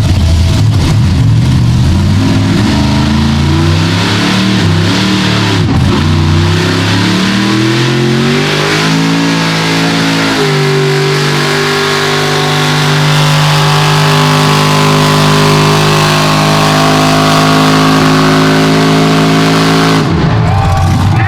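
Mega truck engine at full throttle pulling a weight sled, its pitch climbing over about ten seconds with a brief dip near six seconds, then holding high and steady for the rest of the pull.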